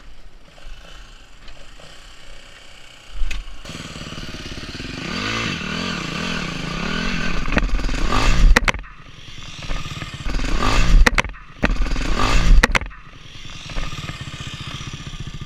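Four-stroke dirt bike engine revving up and down as it is ridden, starting about three seconds in, with its pitch rising and falling and dropping off sharply twice, then settling into a steady, even note near the end.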